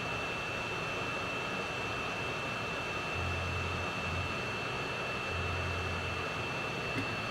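Steady rushing machine noise like a blower or fan, with a steady high whine over it; a low hum switches on and off several times in the second half.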